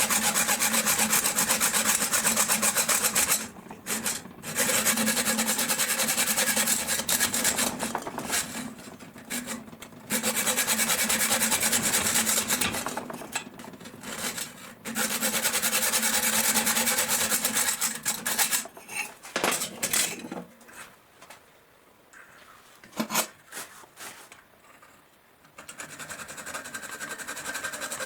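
Abrasive hand work on a knife part, rasping and rubbing in runs of a few seconds with short pauses between. Later the scraping stops, leaving a few sharp clicks and taps. Near the end a different steady noise starts.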